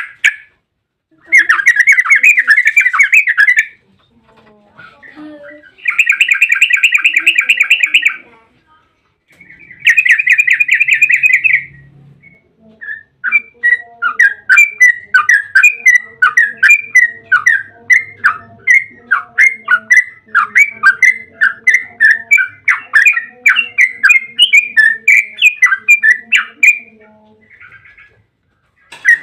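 Yellow-vented bulbul (trucukan) singing: three bursts of fast chattering trills of about two seconds each, then a long, quick run of rapid notes lasting about a quarter of a minute, the long 'ropel' song used as a lure to draw other bulbuls into answering.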